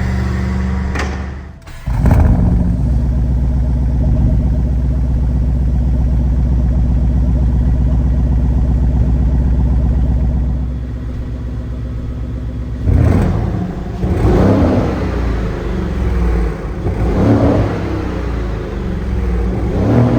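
Lamborghini Urus SE's twin-turbo 4.0-litre V8 exhaust running at a steady idle, with a short break about a second and a half in. From about two-thirds of the way through come four throttle blips, each revving up and dropping back.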